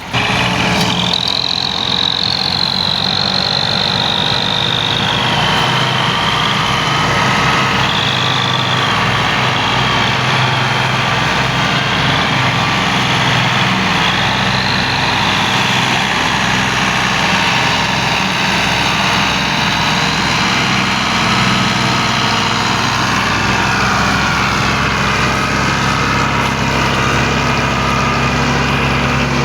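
Tractor diesel engine running steadily. A thin high whine wavers in pitch over roughly the first eight seconds.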